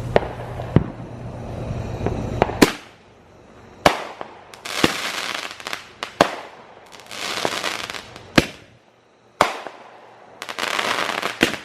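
Consumer firework cake with large tubes firing in sequence: sharp reports about every second, with spells of crackle between several of them.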